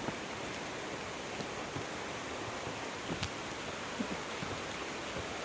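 Steady hiss of falling rain, with a few sharp ticks of drops scattered through it.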